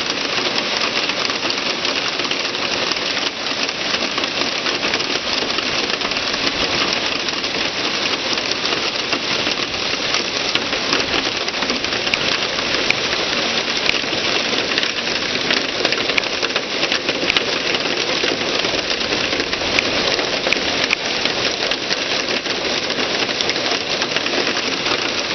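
Hail coming down hard, a dense, steady clatter of many small impacts with sharper individual hits throughout.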